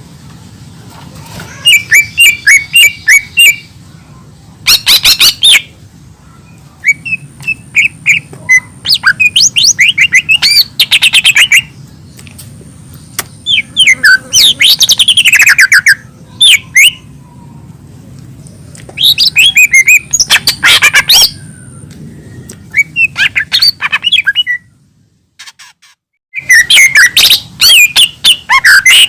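Cucak ijo mini, a green leafbird, singing loudly in bursts of rapid chirps and gliding whistled notes, with short pauses between phrases. The song breaks off briefly about 25 seconds in, then resumes near the end.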